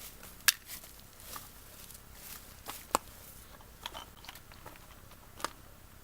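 Campfire of olive-tree prunings crackling, with irregular sharp pops; the loudest comes about half a second in, and others follow near three seconds and five and a half seconds.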